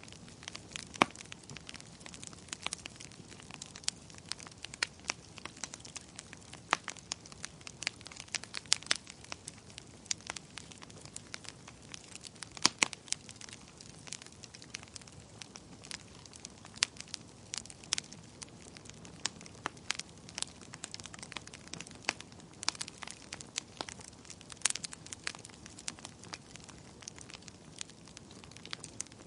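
Wood fire crackling: sharp, irregular pops and snaps over a soft low hiss of burning.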